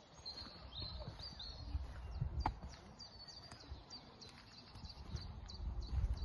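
Small birds chirping in the trees: short, high notes repeated over and over above a low, uneven rumble.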